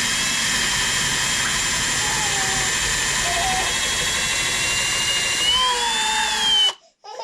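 Power drill running steadily under load for several seconds, its whine rising in pitch near the end before it stops abruptly.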